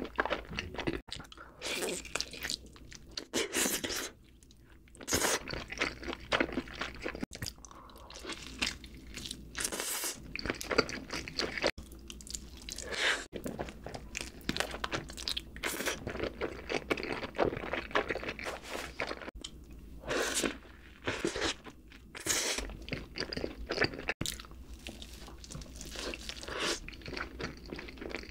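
Close-miked chewing and biting of a cheeseburger, then of barbecue-glazed fried chicken: irregular wet mouth sounds and bites, with a short lull a few seconds in.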